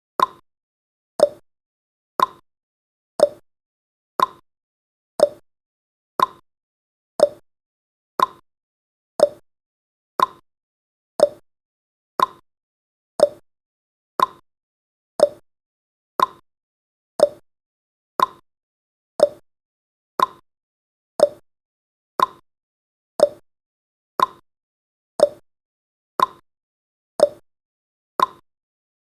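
Countdown timer's ticking sound effect: a short, sharp tick once a second, evenly spaced.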